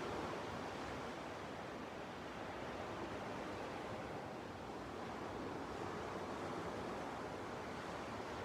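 Ocean waves washing onto a beach: a steady surf rush that eases slightly midway and then swells again.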